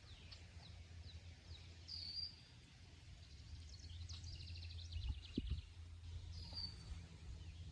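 Small songbirds chirping faintly, with a rapid trill of quick repeated notes about halfway through, over a steady low rumble. A soft low thump sounds a little after the trill.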